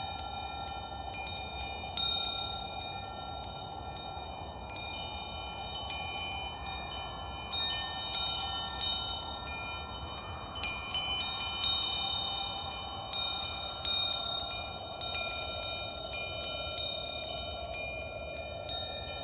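Metal wind chimes ringing, struck at irregular moments so their clear tones overlap and die away, with the loudest strike about halfway through. A steady rushing noise that slowly swells and shifts runs beneath them.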